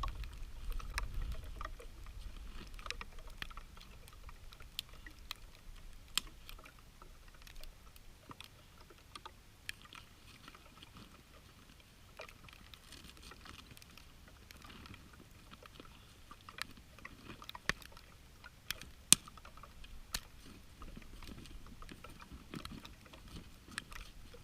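Irregular crunching and sharp clicks of boots trudging through deep snow, with a low rumble in the first couple of seconds.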